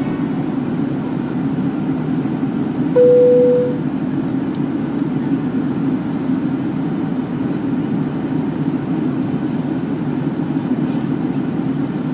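Steady drone of a jet airliner's cabin in flight. About three seconds in, a single cabin chime sounds briefly, as the seatbelt sign is switched off.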